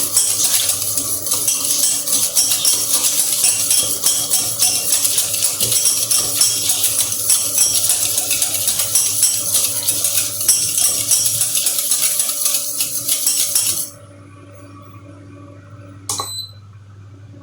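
Hand whisk beating hot milk in a saucepan to froth it: a fast, continuous rattling and scraping of the whisk against the pan that stops suddenly about 14 seconds in. A single short clink follows a couple of seconds later.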